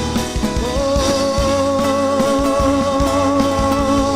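Church worship music with drums, one long note held with a slight waver from about half a second in until just before the end.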